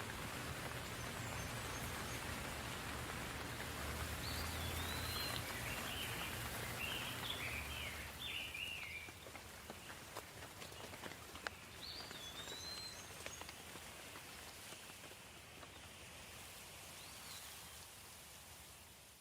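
Gentle steady rain hissing, with scattered drips ticking. A small bird chirps in short twittering phrases, busiest in the first half and again about two-thirds in, over a low rumble that fades after the first half.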